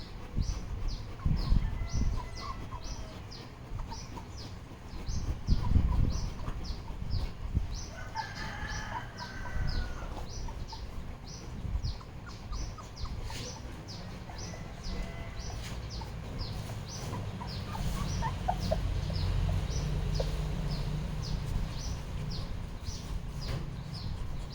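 A steady series of short, high chirps, each falling in pitch, about two or three a second, over low rumbling noise, with a few fainter squeaks about eight seconds in.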